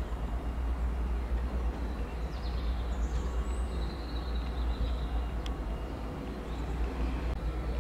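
Steady low rumble of a train at a railway station, with a few brief high chirps about two to five seconds in.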